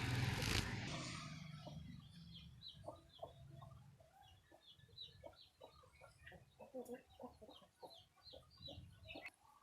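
Budgerigar chirping, a quick run of short calls that carries on throughout. A loud burst of noise fills the first second.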